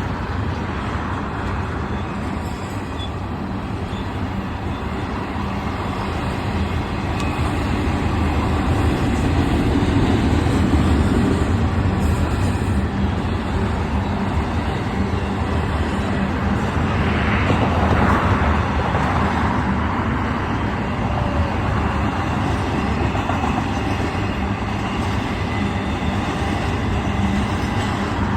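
Union Pacific diesel freight locomotives running with a steady low drone that grows louder about a third of the way in as the train comes closer.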